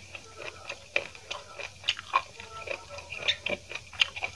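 Close-up chewing of a mouthful of crunchy raw vegetable: irregular crunches and clicks, a few each second.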